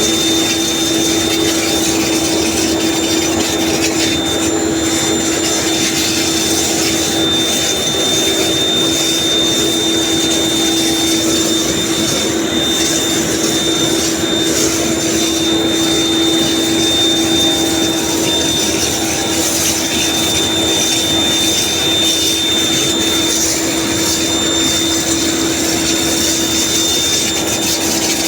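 Chiller plant and cooling tower machinery running steadily: a constant hum and a thin high whine over an even hiss.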